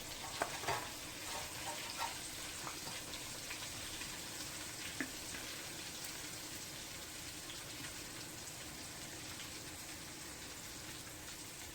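Flour-coated chicken deep-frying in hot oil: a steady sizzle with a few small pops in the first few seconds.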